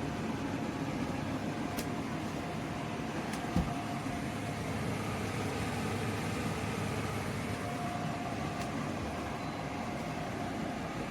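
KGOGO 7000 BTU portable air conditioner running with a steady fan and compressor hum and a faint whine. There is one brief low thump about three and a half seconds in.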